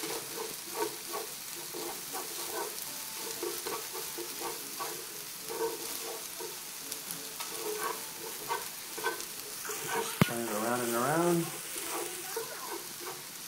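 Yakisoba noodles with pork and bean sprouts sizzling in an electric skillet as they are tossed with chopsticks, with frequent light clicks of the chopsticks against the pan. A single sharp knock comes about ten seconds in.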